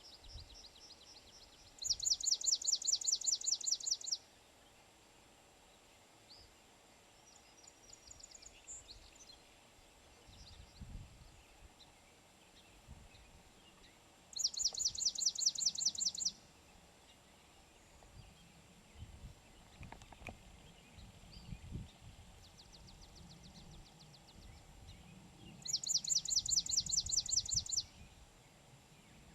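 Swamp sparrow singing: three loud, even trills of rapidly repeated notes, each about two seconds long and about twelve seconds apart. Fainter, softer trills of other birds come between them.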